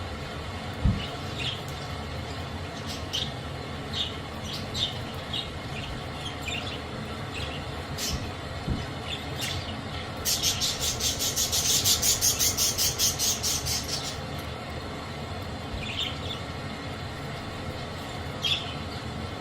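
Budgies chirping in short scattered calls, with a loud rapid run of repeated harsh chattering calls, about six a second, for some four seconds midway. A steady low rumble runs underneath.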